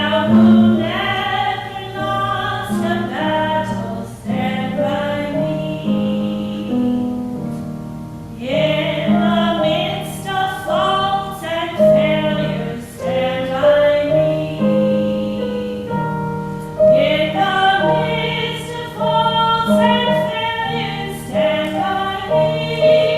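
Choir singing a hymn in phrases with short breaks between them, over sustained low accompaniment.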